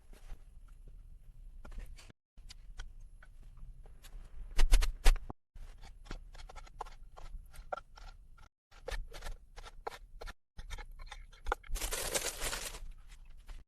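A run of light knocks, clicks and scrapes from hand building work, with a few louder knocks about five seconds in and a short rushing noise near the end, broken by several abrupt cuts.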